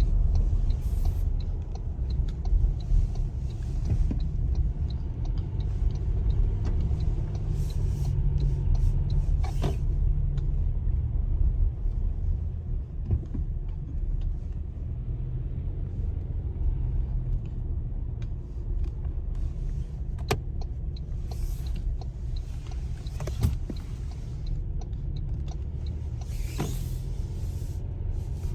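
Pickup truck driving: a steady low engine and road rumble, with a few brief clicks and short bursts of hiss.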